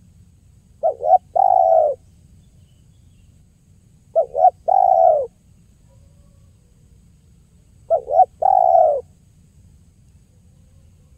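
Spotted dove (tekukur) cooing: three phrases about three and a half seconds apart, each two short notes followed by a longer drawn-out note.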